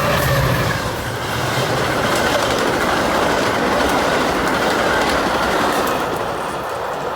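A train passing close by at speed: wheels clattering over the rail joints and a loud rush of cars going past, easing off near the end. A low engine drone fades out in the first second.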